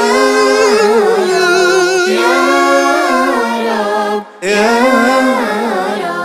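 Wordless a cappella vocal melody, humming-like held and gliding notes with no percussion, between verses of a nasheed. It breaks off briefly about four seconds in.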